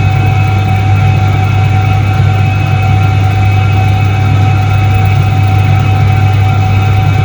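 1978 Soviet Iset-3 washing machine running: a steady low hum with a higher steady whine on top.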